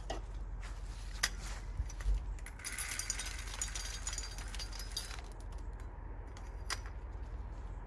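A dense rattle of small hard pieces lasting about two and a half seconds, with a few single clicks and knocks before and after it, over a low steady rumble.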